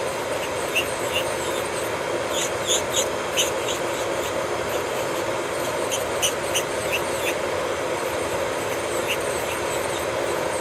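Electric nail drill running with a steady high hum while its bit works over a fingernail, giving short scratchy ticks in clusters near the start and again a little past the middle.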